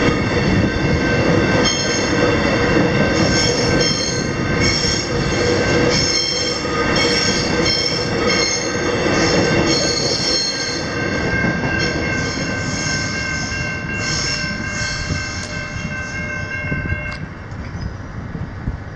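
Suburban electric train passing through a level crossing: a steady rail rumble with high-pitched wheel squeals flickering through the middle. A set of steady tones cuts off near the end as the sound fades.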